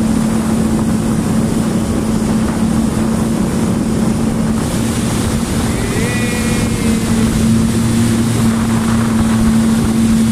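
Jet ski engine running under way at a steady pitch, with wind noise on the microphone.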